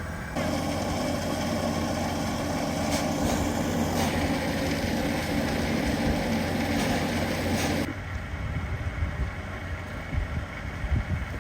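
Steady, loud rushing mechanical noise from the train that starts suddenly a moment in and cuts off sharply about eight seconds in. It leaves a lower rumble with scattered thumps.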